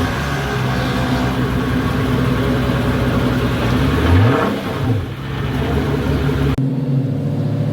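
Car engine idling, with a single quick rev that rises and falls about four seconds in. Near the end the sound cuts abruptly to another engine idling.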